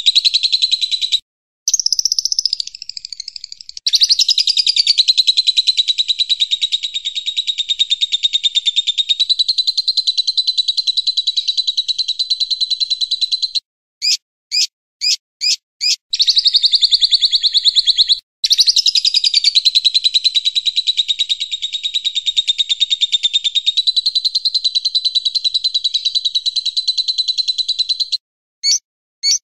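Recorded cage-bird song from a masteran track mixing cililin, lovebird and siri-siri: long, very fast chattering trills held for many seconds at a time. About halfway through, a quick row of five short separate notes breaks in.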